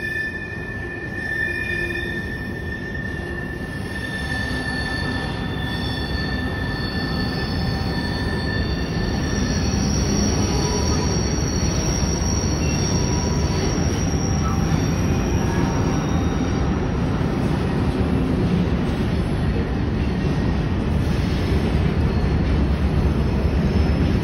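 Freight train of covered hopper cars rolling through a tight curve, its wheels squealing in steady high tones against the rails over a continuous rolling rumble. The squeal is strongest in the first half, and the rumble grows louder toward the end.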